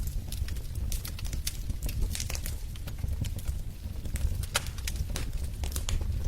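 Wood fire crackling in a fireplace: frequent sharp irregular snaps and pops over a steady low rumble of the flames.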